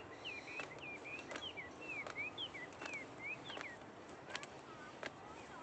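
A songbird calling, a run of short whistled notes sweeping up and down in pitch, several a second, that stops about three-quarters of the way through. Scattered sharp clicks are heard under it.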